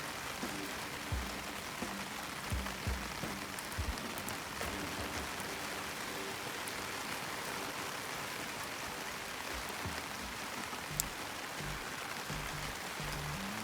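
Steady rain pattering, with a soft background music track underneath and one sharp tick near the end.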